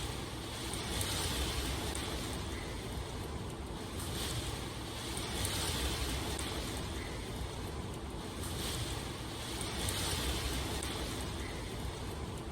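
Steady rain falling, a dense even hiss that swells and eases about every four seconds.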